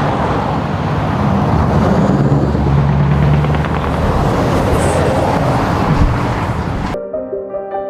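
Heavy truck's diesel engine running loudly, with a deep drone that swells a little a couple of seconds in. It cuts off abruptly near the end and soft piano music takes over.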